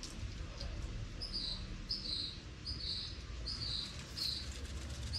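A bird chirping, a short high note repeated about every three-quarters of a second, starting about a second in, over a low rumble.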